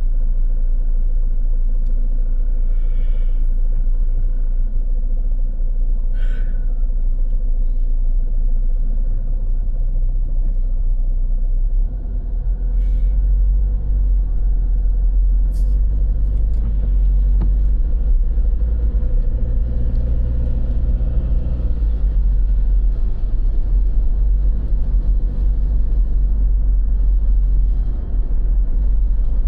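Steady low rumble of road traffic, with a vehicle engine swelling and fading in the middle.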